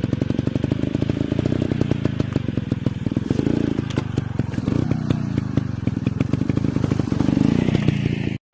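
Dirt bike engine running at low revs, a rapid, even exhaust pulse with small rises in revs now and then; it cuts off suddenly at the end.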